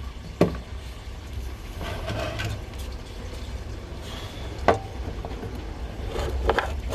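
Sharp metallic knocks and clinks of tools and metal parts being handled, with two loud clicks, one about half a second in and one near five seconds in, and a rattling clatter near the end, over a low steady rumble.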